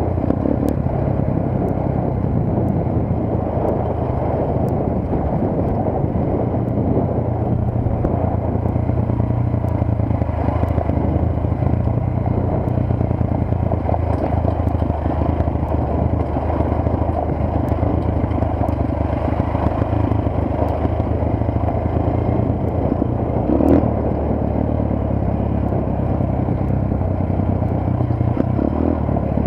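Motorcycle engine running steadily under way, with road and wind noise, and a brief thump about two-thirds of the way through.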